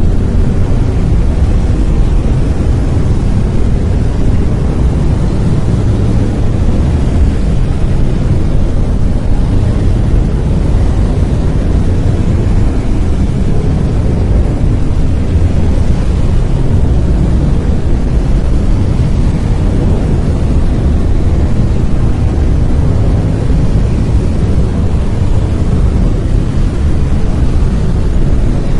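Brown noise: a steady, deep rumbling hiss with its energy strongest in the bass and fading towards the treble, unchanging throughout.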